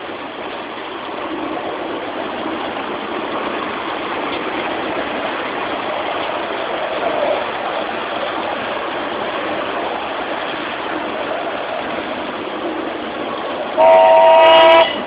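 A miniature railway train running along its 7.25-inch gauge track with a steady rumbling noise, then one loud whistle blast about a second long near the end.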